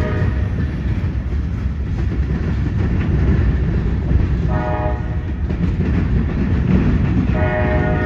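Freight train of open-top coal cars rolling past with a steady low rumble. A locomotive air horn sounds a blast of about a second near the middle and starts another near the end.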